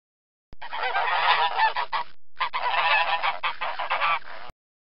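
Geese honking: many rapid, overlapping honks in two stretches, with a short break just after the middle. The sound starts and stops abruptly.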